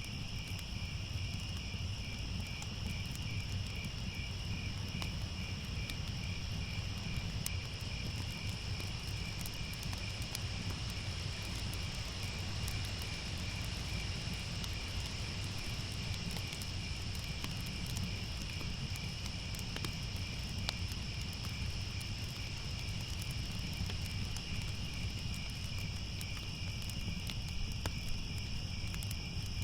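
Crickets chirping in a steady, continuous night chorus, with one lower line of chirps pulsing evenly. Under it runs a low steady rumble with faint scattered crackles of a fire.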